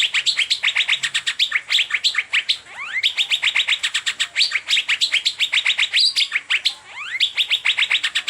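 Asian fairy-bluebird singing in its 'teler' style: a continuous rapid run of short, sharp repeated notes, about seven a second, broken now and then by a rising whistle.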